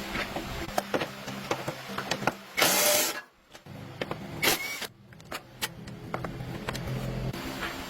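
A small motor hums steadily under scattered clicks and knocks, with a short loud hiss a little before the middle. The sound cuts out briefly twice.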